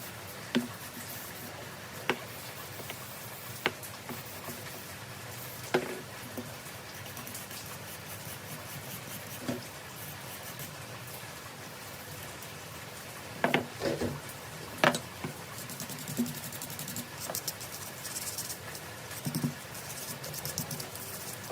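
Scattered light clicks and knocks, as of small parts and tools being handled and set down on a workbench: single clicks at first, then a cluster of louder knocks about two-thirds of the way in, followed by light rattling.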